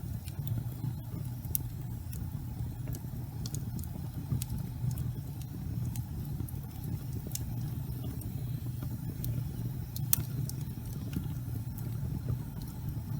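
Fire burning in a fireplace: a steady low rumble of flames with frequent sharp crackles and pops, a few of them louder.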